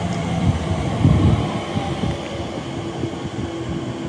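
Elizabeth Line Class 345 electric train at the platform, a low rumble of wheels and running gear that swells about a second in, with a steady electric hum coming in about two seconds in.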